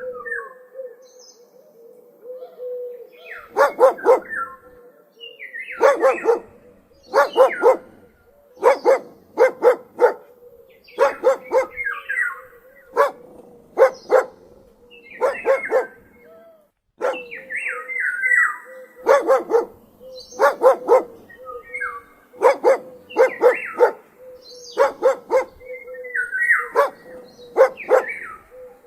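A dog barking in quick runs of two to four barks, repeating every second or two, with birds chirping between the runs and a steady hum underneath.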